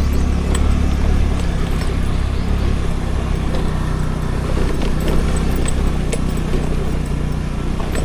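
Scooter running along a road, a steady low engine hum mixed with wind and road noise on the rider's action camera, with scattered light clicks and rattles.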